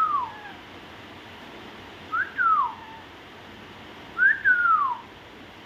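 Pet parrot whistling the same short phrase three times, about every two seconds. Each phrase is a quick rising note that drops into a long falling glide.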